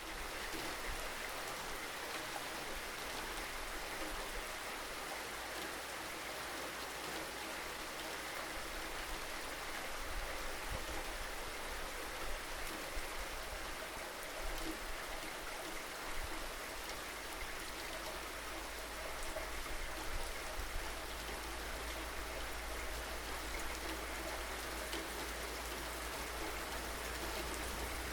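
Steady rain falling, its drops pattering on a surface, with a few heavier moments about halfway through and again later.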